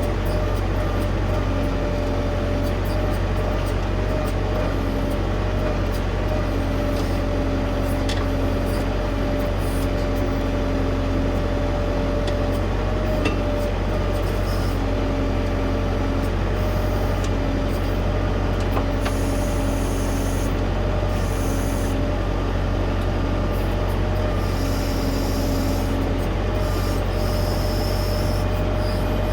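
Tractor diesel engine running steadily while working a backhoe, with a higher whine that comes and goes every second or two and scattered light clicks and knocks.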